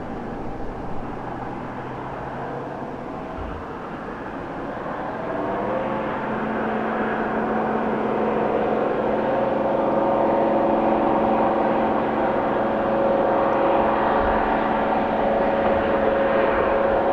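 A Class 55 Deltic diesel locomotive's twin Napier Deltic two-stroke engines approaching. A steady, many-toned engine note comes in about five seconds in and grows louder, then holds.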